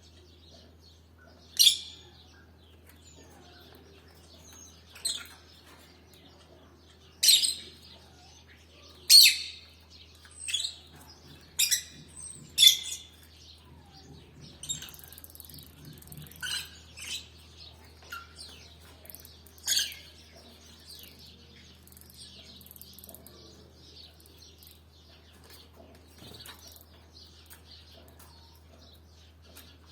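Caged canaries giving short, sharp chirps at irregular intervals, about a dozen calls, most of them in the first two-thirds, over a faint steady low hum.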